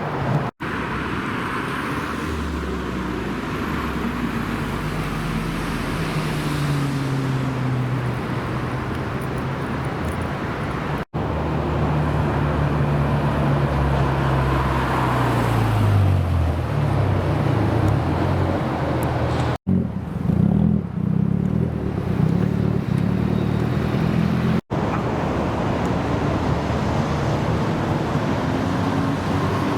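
Several car engines one after another, revving and accelerating away, their pitch rising and falling, split by abrupt cuts. Between the cuts there is a short stretch of steadier low engine rumble.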